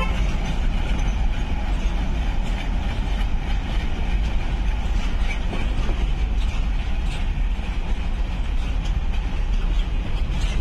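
Container freight train wagons rolling past close by: a steady rumble of steel wheels on the rails, with occasional clicks.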